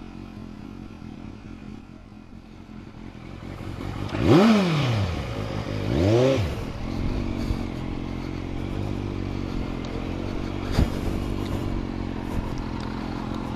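Motorcycle engine revved twice, the pitch rising and falling each time, the second rev shorter, then running steadily. A single sharp click sounds near eleven seconds.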